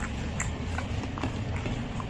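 Close-miked eating sounds: wet chewing and lip smacks as rice and egg curry are eaten by hand. The smacks come as short sharp clicks about every half second over a steady low background rumble.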